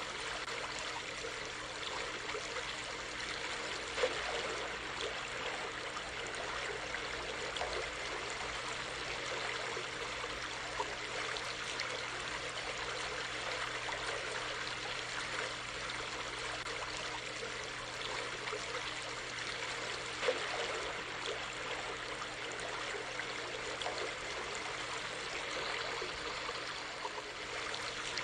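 A stream of running water flowing steadily with a continuous babbling rush, and a couple of brief louder splashes.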